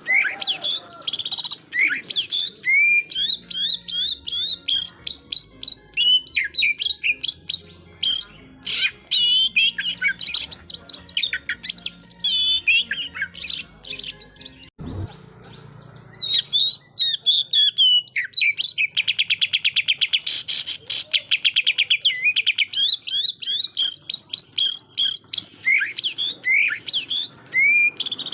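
Oriental magpie-robin (kacer) singing without pause: a fast run of sharp whistled and chirping notes with a rapid trill a little past halfway, broken by a low thump and a short lull about halfway. This is the aggressive 'tembakan' song that provokes rival males.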